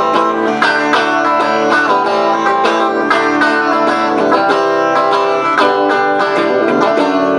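Guitar playing an instrumental passage of plucked and strummed chords between sung verses of a song.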